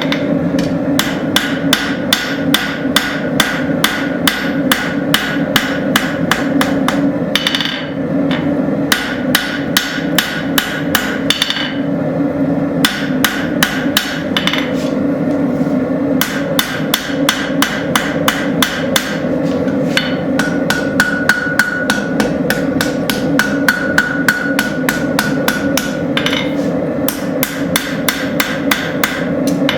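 Rounding hammer striking a hot railroad spike on an anvil in long runs of about three blows a second with brief pauses, drawing out and thinning the blade's spine. A steady hum runs underneath.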